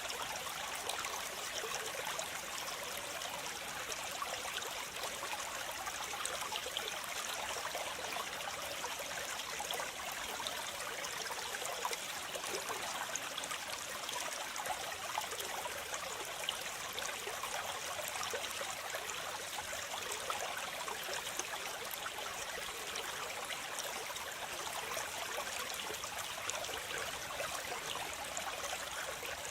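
Waterfall: water falling and splashing in a steady, unbroken rush, mostly high and hissy with little low rumble.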